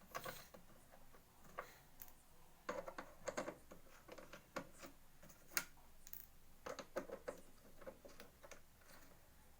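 Faint, irregular clicks and taps of a wrench on the bolts of a pump engine, as the four bolts are unscrewed by hand.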